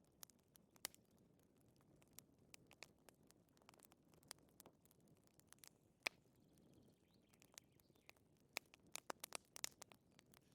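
Wood fire crackling softly: sharp, irregular pops and snaps over a faint low background, coming thicker near the end.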